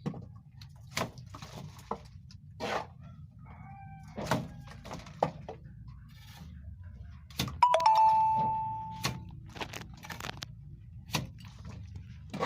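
Scattered knocks and clicks of objects being handled, with one clear ringing ding, like a struck metal or glass object, about eight seconds in that rings on and fades over a second or so.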